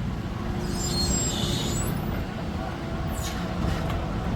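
Diesel engine of a JCB backhoe loader running steadily. A few brief high squeaks come about a second in, and a high falling squeal comes a little past three seconds.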